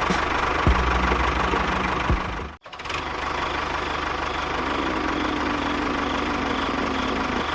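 A small engine running steadily, cut off for a split second about two and a half seconds in before running on.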